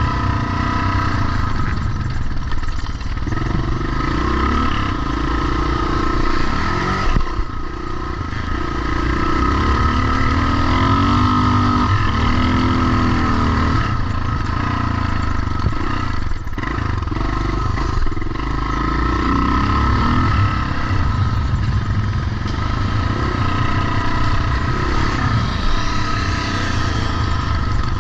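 Vintage pre-1990 motocross motorcycles running continuously, the engine pitch rising and falling with the throttle, most clearly about ten to thirteen seconds in.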